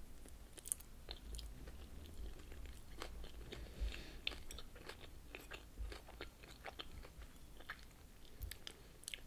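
A person chewing crunchy salad close to the microphone: irregular crunches and mouth clicks.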